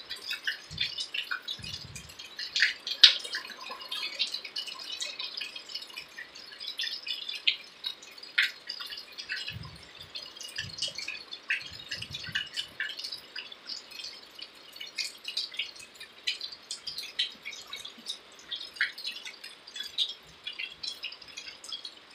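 Rain falling, heard as a dense, irregular patter of drops and drips landing close by, with a few brief low thumps near the start and again around the middle.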